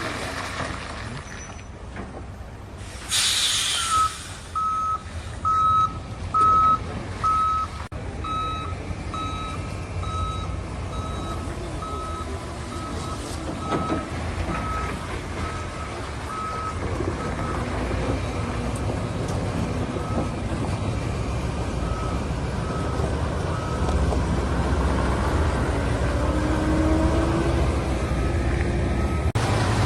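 Heavy diesel machinery running with a low rumble. About three seconds in there is a sharp burst of air-brake hiss, followed by a reversing alarm beeping steadily and fading away over about twenty seconds. The engine grows louder near the end.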